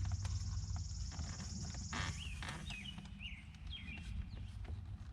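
A bird chirping four or five times, short sliding notes from about two seconds in, over a steady low hum. A steady high hiss runs through the first two seconds and stops, and there are a few faint clicks of parts being handled.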